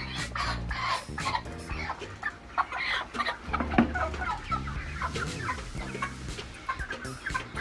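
A flock of five-week-old broiler chickens clucking and cheeping, many short calls overlapping.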